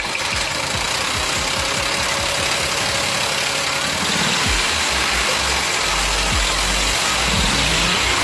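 An engine running steadily, a dense loud noise, with background music underneath.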